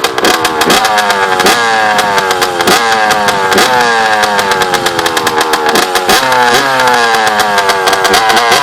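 Honda CR85's two-stroke single-cylinder engine running after a restart, its throttle blipped about once a second, each rev rising sharply and falling back toward idle.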